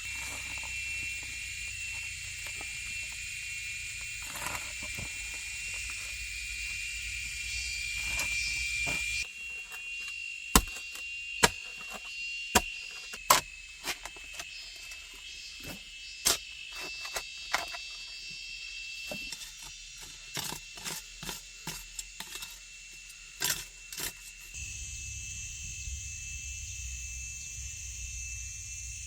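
Rainforest insects chirring steadily at a high pitch. Through the middle stretch a series of sharp, irregular knocks cuts in, some much louder than the insects.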